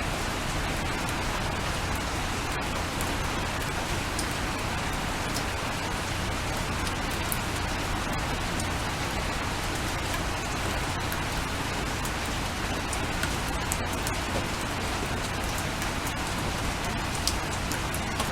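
Steady rain falling: an even hiss with scattered sharp ticks of individual drops striking.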